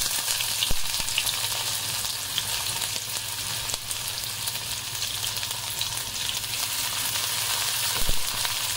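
Chopped onion frying in hot oil with bay leaf and dried red chillies, a steady sizzle that cuts off suddenly at the end.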